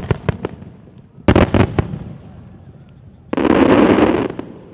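Aerial firework shells bursting: a quick run of sharp bangs at the start, another cluster of bangs about a second and a half in, then a dense, noisy crackling burst lasting about a second near the end.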